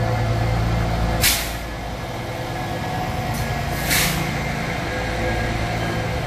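Standing electric train with a steady low hum that cuts off about a second in with a sharp hiss of released compressed air. Two more short air hisses follow around three and four seconds, the second one louder, while a quieter hum continues.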